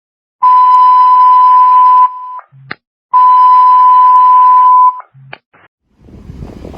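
Two long, steady electronic beeps at one pitch, each lasting nearly two seconds, with a short click after each. Wind noise comes in near the end.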